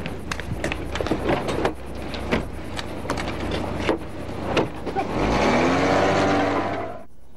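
Police car engine idling with scattered small knocks, then revving up as the car pulls away about five seconds in. The sound cuts off suddenly near the end.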